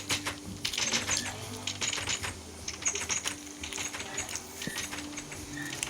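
Rapid, irregular clicking and tapping, several strokes a second, over a steady low hum.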